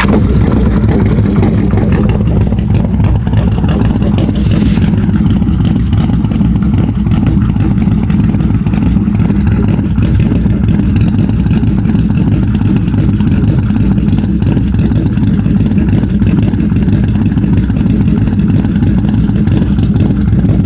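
1998 Yamaha V-Max's V4 engine running steadily through a UFO Street Pro 4-2 exhaust fitted with Voodoo Speakeasy baffles and fresh fiberglass packing, holding an even note without revving.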